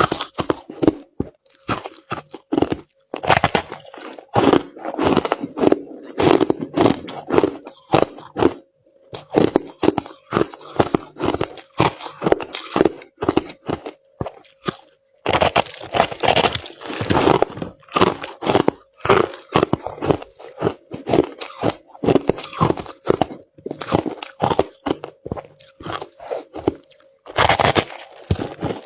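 Crushed ice being chewed close to the microphone: rapid sharp crunches in runs of several seconds, broken by brief pauses between mouthfuls.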